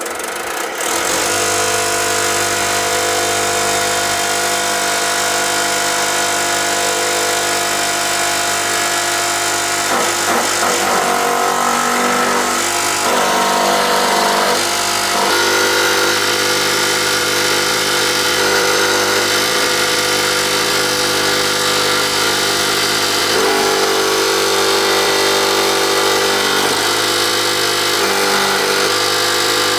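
A motor starting up and then running steadily, its pitch wavering for a few seconds about a third of the way in.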